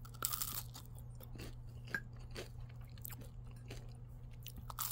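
A person chewing and crunching the bitten-off crust corners of Totino's pizza rolls: a run of short, irregular crunches, a few louder ones among them.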